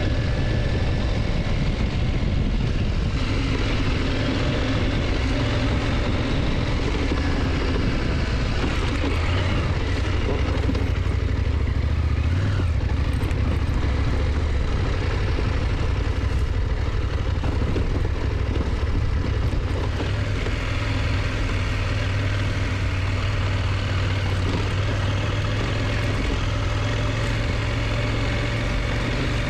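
KTM motorcycle engine running steadily while riding at an even speed, with a steady rushing noise over it.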